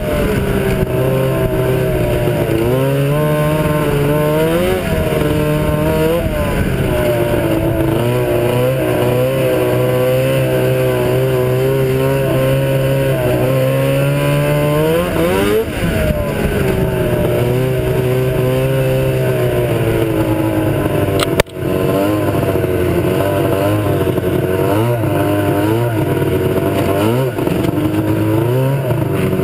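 Ski-Doo Blizzard 7500 snowmobile's two-stroke engine running on a test ride with freshly rebuilt drive clutches, its revs holding steady and then rising and falling several times. A brief click and dropout about twenty-one seconds in.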